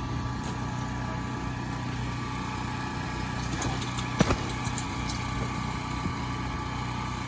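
Generator engine running steadily, with a few sharp clacks about four seconds in.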